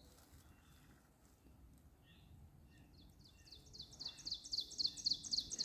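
A songbird singing: a fast run of high, quickly falling notes, about four or five a second, starting about three seconds in and growing louder.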